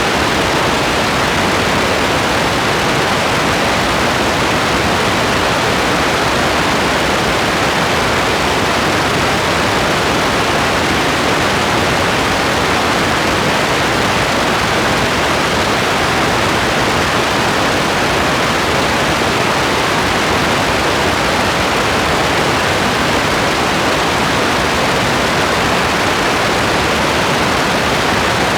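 Steady heavy rain: a dense, even hiss with no separate drops or thunder standing out.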